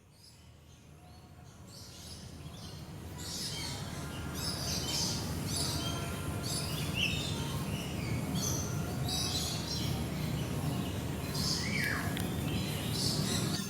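Many birds chirping and calling, in repeated short high calls with one falling call near the end, over a steady low background hum. The sound fades in over the first few seconds.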